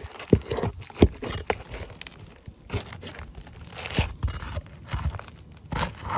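Roof shingles being pried up with a metal roof snake: tearing, scraping and crackling, with several sharp knocks from the tool. The shingles are tearing as they are lifted, so they cannot be removed without damage.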